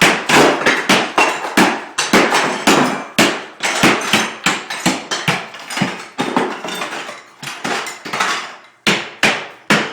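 A hammer smashing into a wall during demolition: repeated, irregular blows, about two a second.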